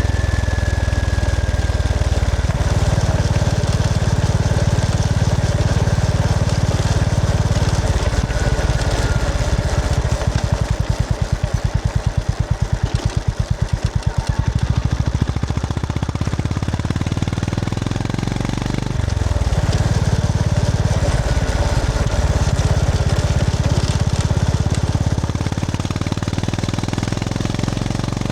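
Honda GB350S single-cylinder engine running as the motorcycle is ridden. For a few seconds in the middle the separate firing pulses come through as a slow, even thump, off the throttle at lower revs, before the engine pulls steadily again.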